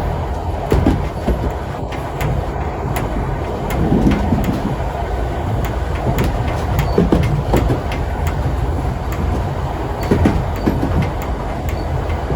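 Vintage railway carriage running along the track: a steady rumble with irregular clicks and knocks from the wheels, and a few short squeaks.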